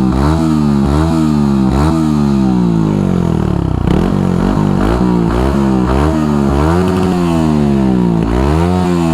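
Yamaha R15 v3's 155 cc single-cylinder engine being revved again and again through its stock muffler. The muffler's narrow inner pipe has been swapped for a wider one for a louder, bassier note. Pitch climbs and drops with each throttle blip: quick ones at first, then longer sweeps.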